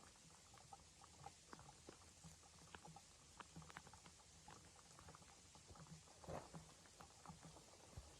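Near silence with faint, irregular clicks and ticks, a slightly stronger cluster about six seconds in.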